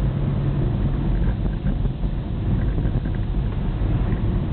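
Steady low rumble of a car driving, engine and tyre noise heard from inside the cabin, with a low hum that fades about a second in.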